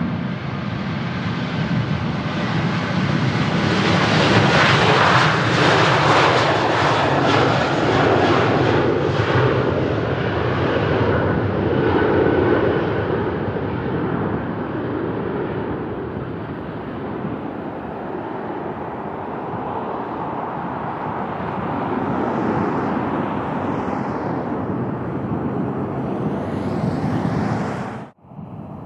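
Boeing 737 jetliner passing on departure, its jet engines at climb power. The roar swells to a peak a few seconds in, drops in pitch as it passes, then fades into a long rumble, with wind buffeting the microphone. It cuts off abruptly near the end.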